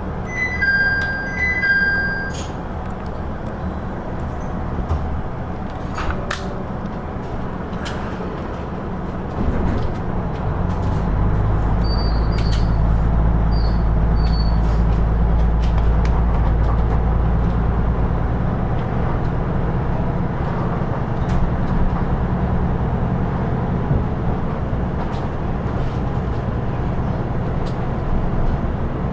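Interior of a KiHa 110-series (KiHa 112) diesel railcar: its diesel engine idling, with a short two-tone chime in the first two seconds. About ten seconds in the engine throttles up and its low drone grows louder and stays up as the railcar pulls away under power.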